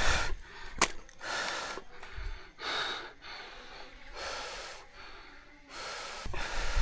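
A person breathing hard: heavy breaths repeating about once every second and a half.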